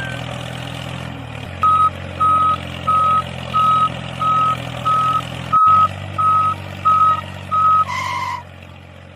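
A vehicle's reversing alarm beeps about ten times, roughly three beeps every two seconds, over a steady engine hum, then stops near the end.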